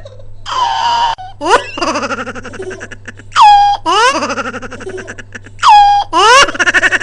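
Pet bird mimicking human laughter: several bouts of rapid ha-ha notes, each opening with a high rising whoop, in a wild, manic-sounding run.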